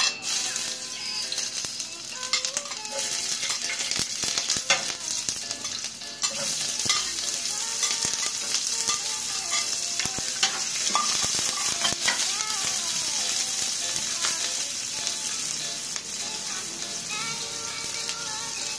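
Garlic and bitter gourd strips sizzling in hot oil in a frying pan, with scattered sharp clicks. The sizzle grows louder about six seconds in.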